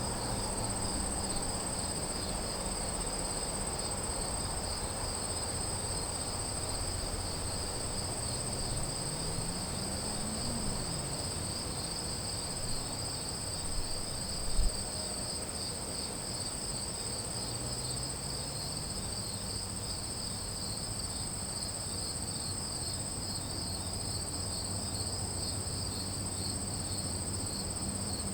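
Crickets or similar insects calling together: one continuous high trill and a second, slightly lower one that pulses rapidly. A faint low hum rises in pitch twice. A single short knock about halfway through is the loudest sound.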